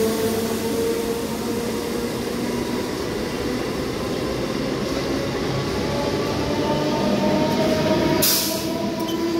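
Electric multiple-unit local train running past along the platform as it pulls out, a steady rumble of wheels on the rails with a few held humming tones that sink slightly in pitch. A brief hiss about eight seconds in.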